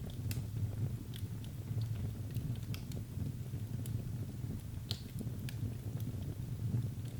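Wood fire burning in a fireplace: a steady low rumble of flames with scattered sharp crackles and pops, a louder pop about five seconds in.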